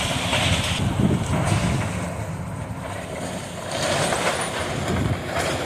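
Heavy demolition machine running while it tears down a gym's roof and frame, with two spells of crunching and crashing debris over the steady engine noise.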